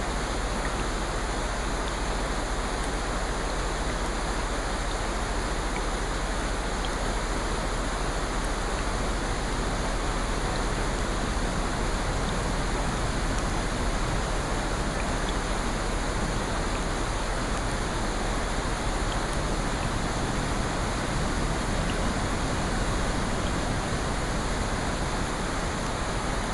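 Steady rain: an even hiss of falling water that does not change, with faint scattered ticks.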